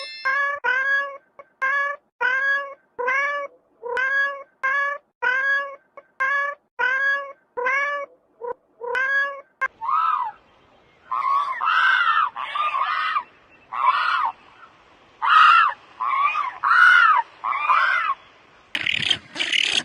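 A cat meowing over and over. First comes a run of short, evenly spaced meows, about one and a half a second. About halfway through, they give way to louder, longer, higher meows that rise and fall in pitch.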